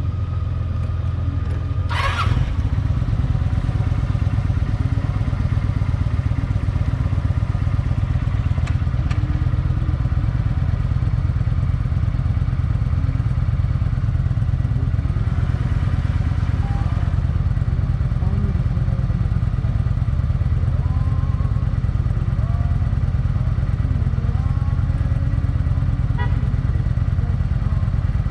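V-twin engine of a Kawasaki Vulcan 900 LT motorcycle running steadily while riding, with a sharp click about two seconds in.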